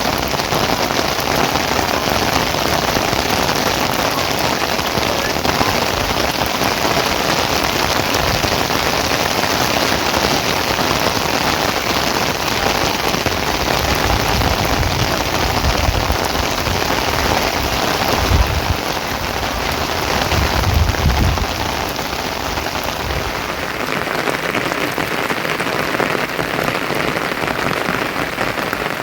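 Steady rain falling, a loud even hiss, with two short low rumbles around the middle.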